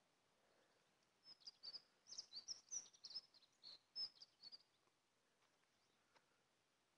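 Faint bird chirping outdoors: a quick run of short, high twittering notes from about a second in to roughly the middle, then near quiet.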